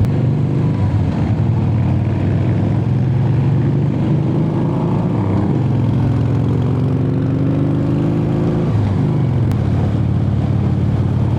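Motorcycle V-twin engine running under way. Its note climbs slowly, dips sharply about three-quarters of the way through, then picks up again.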